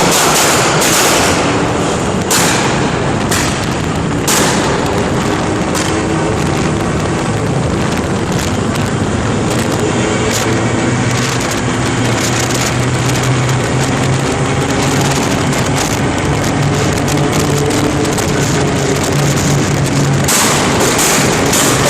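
Tuned car engine running with its exhaust popping and banging: sharp pops in the first few seconds and again near the end, the engine held at steady revs in between.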